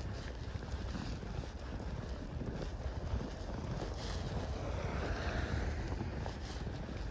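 Wind rumbling on the microphone in a snowstorm, over steady street traffic, with a vehicle passing about five seconds in.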